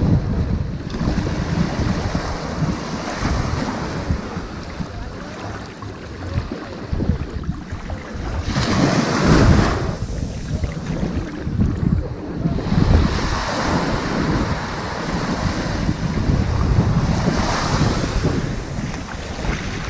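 Ocean waves washing onto a sandy beach, the surf swelling and receding in slow surges, the loudest about halfway through, with a constant low rumble of wind on the microphone.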